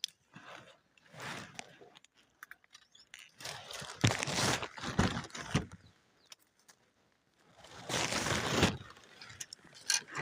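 Crunching and rustling in three main bursts with quieter gaps between them.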